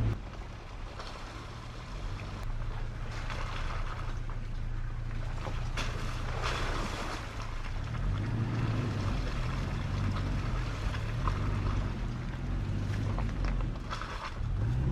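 A vehicle running: a steady low drone with deep rumble and occasional short knocks and rattles.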